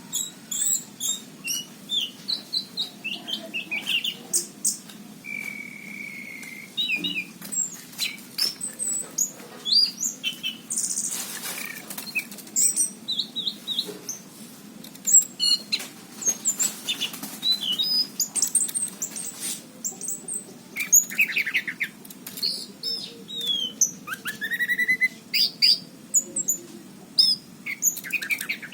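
Anis cendana thrush singing 'gacor': a fast, varied run of short chirps and whistled notes, with one held whistle about five seconds in and a rising whistle about four seconds before the end. There is a brief rustle about eleven seconds in, plausibly wings.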